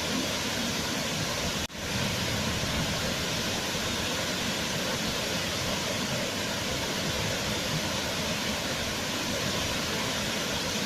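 Waterfall: a steady, even rush of falling water, with a momentary dip in level just under two seconds in.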